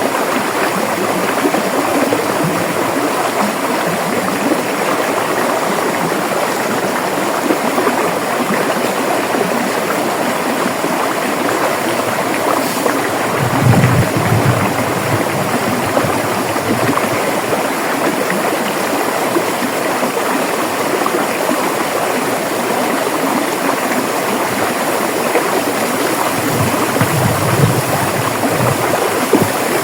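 River water flowing steadily over rocks, a continuous rushing and babbling, with a brief deeper surge about halfway through and another near the end.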